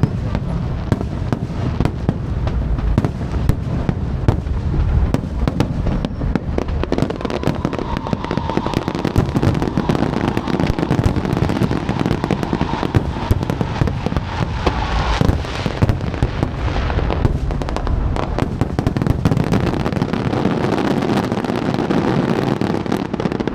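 Fireworks display going off continuously: a rapid, unbroken stream of bangs and crackling pops over a steady low rumble of launches and bursts.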